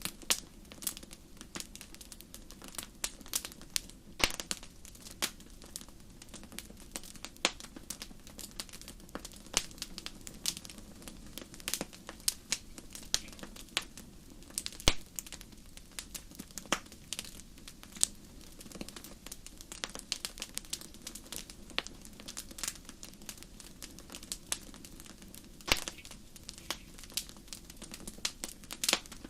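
Wood fire burning in a fireplace, crackling with irregular sharp pops and snaps of varying loudness over a soft steady low rumble.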